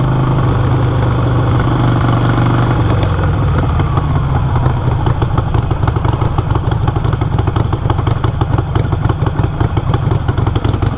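Harley-Davidson Iron 883's V-twin engine running with a steady note, which turns choppy and pulsing about three seconds in.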